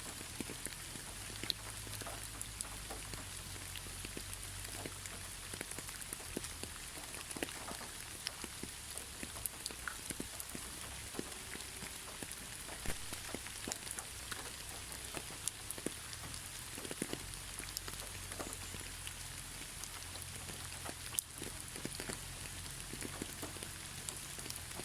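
Steady gentle rain, a constant hiss with many separate drops ticking close by, no thunder.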